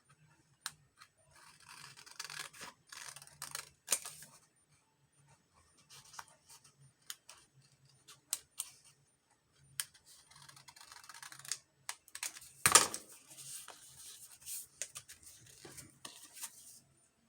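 Scissors cutting out a paper journaling card: stretches of rasping snips broken by sharp clicks of the blades, with one louder knock about thirteen seconds in.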